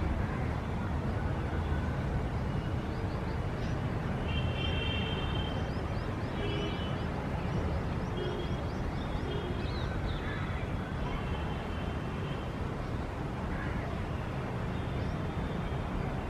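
City street ambience: a steady low rumble of traffic, with birds chirping and calling in short high phrases over it several times.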